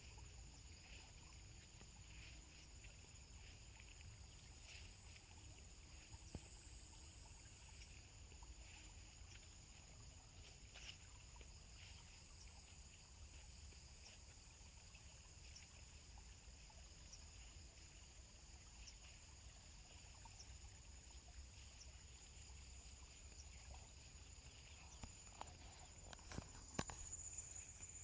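Faint, steady high-pitched insect chorus of several overlapping tones, with soft ticks throughout and a few sharp clicks near the end.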